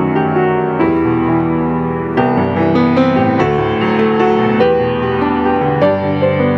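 Piano music: sustained chords under a melody, with a new chord struck about every second.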